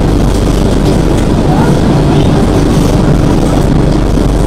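Steady, loud rumble of a train rolling slowly through a station, heard from inside the coach.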